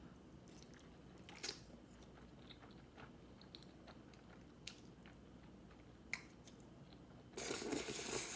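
Close-miked eating: quiet chewing with a few small clicks from the mouth, then a louder, noisy burst of sound near the end.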